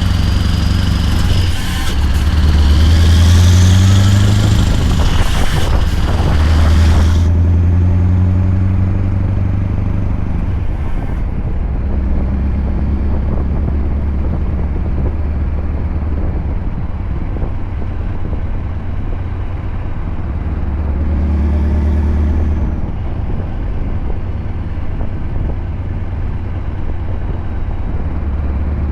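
Scania R580 16-litre V8 diesel with an 8-inch straight-pipe exhaust running under load, its low note rising and falling several times as the truck pulls through the gears. A high whistle sits over it for the first seven seconds and cuts off suddenly.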